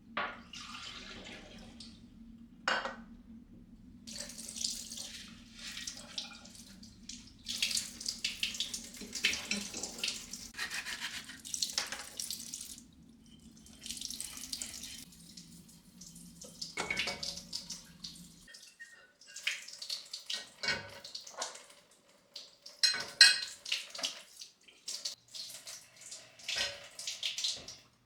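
Water from a tap running in repeated short spurts, as when rinsing at a sink, with a few sharp knocks between. A low steady hum underneath stops about two-thirds of the way through.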